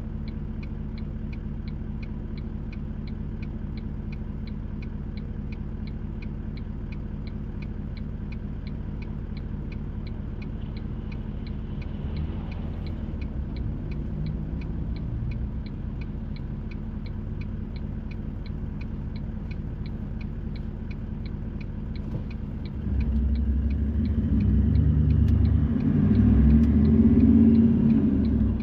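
Car heard from inside the cabin, engine idling while the turn-signal indicator ticks evenly about two and a half times a second. About 23 seconds in the ticking stops and the engine gets much louder as the car pulls away.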